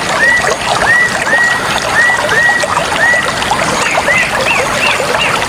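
Running water with a bird chirping over it: a short rising chirp repeated about twice a second, changing to higher arching chirps about four seconds in.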